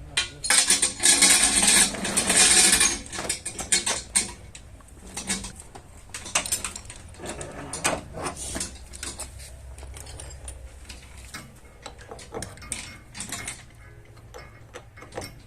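Metal bodywork tools clinking and knocking, with a loud noisy burst lasting about two seconds near the start.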